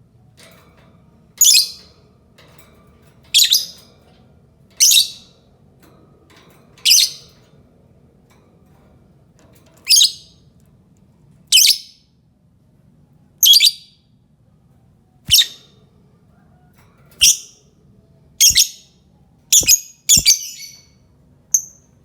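Lovebird giving short, sharp, high-pitched calls, one every second or two, about a dozen in all, coming faster near the end.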